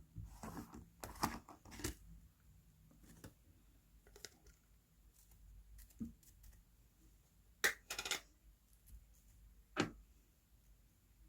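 Slime being squeezed and poked by hand, giving irregular sticky clicks and small air-bubble pops, a few sharper ones standing out.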